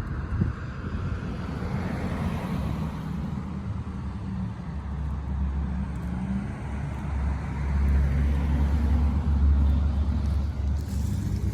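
Road traffic: cars passing, with a low rumble that builds and is loudest about two-thirds of the way through.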